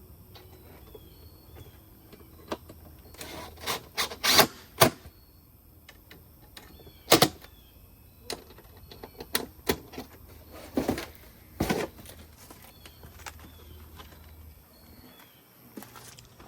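Irregular clicks, knocks and scrapes of metal grill hardware being handled and fitted onto the post. The loudest come in a cluster about four seconds in, with a single sharp knock around seven seconds and more scattered knocks later.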